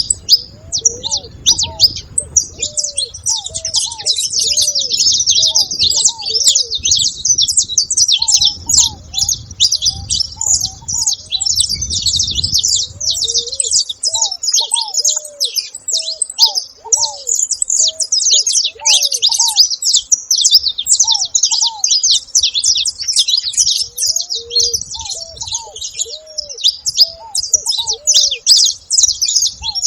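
A flock of saffron finches chirping together in a dense, continuous chatter at a feeding spot. Through it runs a lower, repeated arched call about once a second from another bird.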